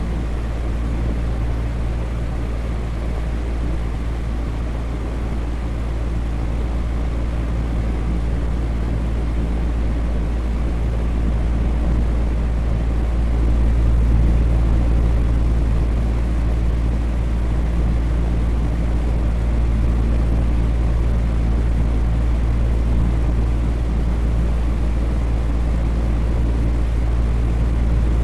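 Electric fan running steadily: a continuous whooshing air noise over a low motor hum.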